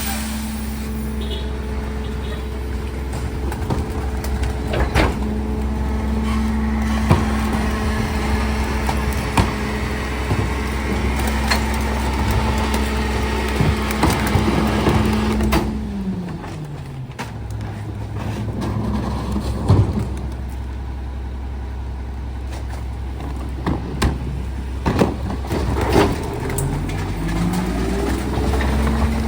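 Garbage truck engine running at raised revs, with scattered knocks and cracking like trash being crushed in the packer. About halfway the engine drops back to idle, and it revs up again near the end.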